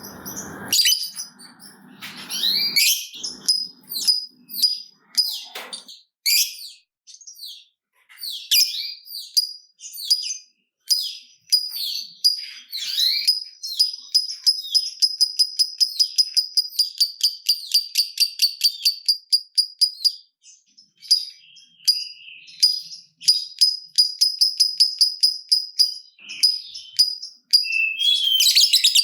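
Lovebird calling with sharp, high chirps. These break about halfway into a long, fast run of repeated chirps, the long chattering 'ngekek' that lovebird keepers prize, and another rapid run comes near the end.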